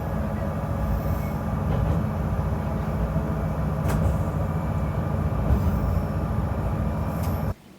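Train running: a loud, steady rumble with a steady hum over it and a couple of sharp clicks, cut in and out abruptly.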